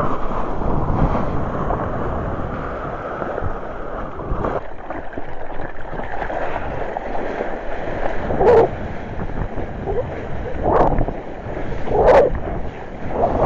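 Ocean surf breaking steadily, with wind buffeting the microphone. Several short, sharper sounds stand out in the second half.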